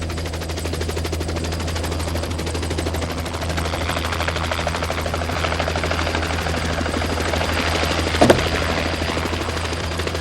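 A light aircraft in flight: a steady engine drone with a fast, even chop from the rotor or propeller. There is one sharp knock about eight seconds in.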